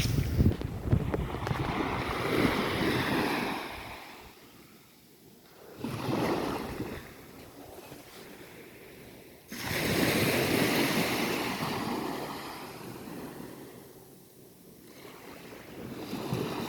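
Sea waves breaking on the shore and washing back in repeated surges. One fades out about four seconds in, a short one comes near six seconds, a big wave breaks suddenly near the middle and slowly dies away, and another rises near the end.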